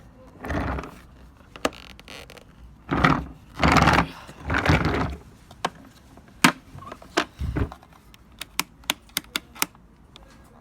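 Handling knocks and thumps, then a quick run of sharp mechanical clicks, about four a second, near the end; no motor is running.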